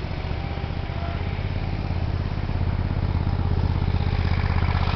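An engine running steadily with a fast, even throb, slowly getting a little louder.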